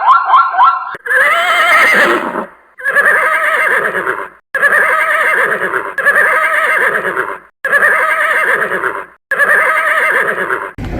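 An animal's call repeated about six times, each a long wavering cry with a strong pitched tone, separated by brief pauses. For about the first second, a fast repeating rising wail, like a yelp siren, cuts off before the calls begin.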